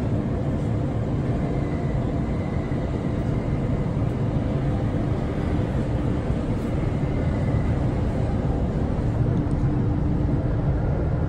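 Interior sound of a JR East E231-800 series electric commuter train running: a steady rumble of wheels on the rails, with a steady low hum under it.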